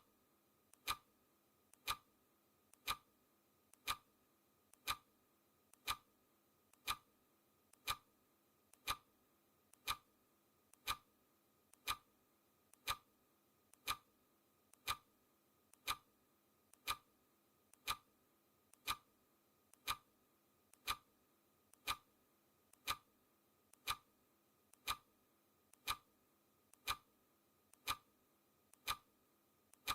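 Clock ticking of a countdown timer: one sharp tick every second, steady and even, each with a faint small click just before it.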